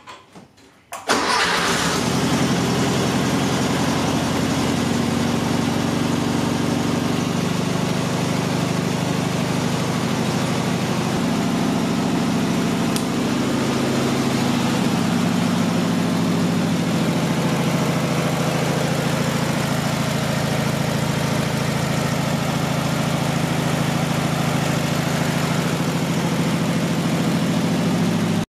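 1968 VW Beetle's air-cooled flat-four engine starting: it catches suddenly about a second in and settles into a steady idle, its speed shifting slightly a few times.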